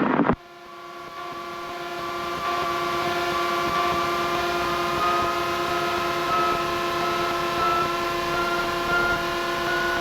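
Light single-engine Piper's piston engine and propeller coming up to takeoff power for a soft-field takeoff. The sound builds over the first couple of seconds, then holds as a steady drone whose pitch slowly climbs as the engine speed rises.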